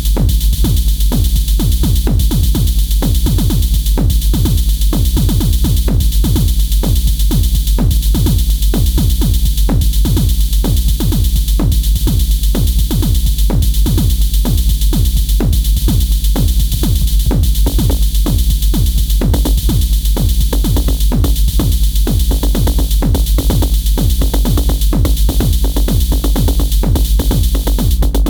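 Elektron Syntakt drum machine playing a fast electronic drum pattern: a deep, constant low end under rapid, evenly spaced hits, with short pitched drum hits that drop in pitch.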